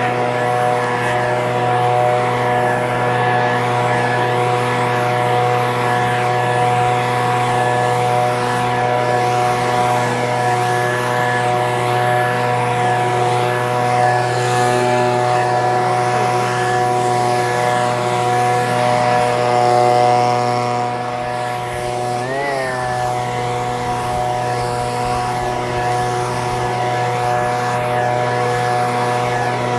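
Echo PB-2620 handheld two-stroke leaf blower running steadily at speed, with a brief rise and fall in engine pitch about three-quarters of the way through.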